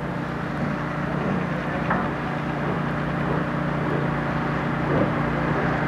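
An engine running steadily, a low even hum over outdoor noise, slowly getting a little louder.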